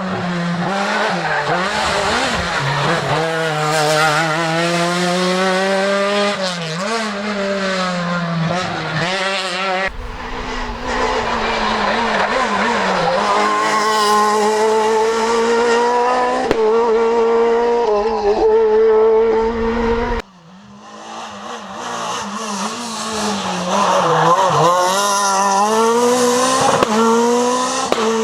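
Renault Clio R3 rally car engine revving hard through the gears, its pitch climbing and dropping with each shift and lift. Three separate passages are cut together, changing about ten and twenty seconds in; the last starts quieter and builds as the car approaches.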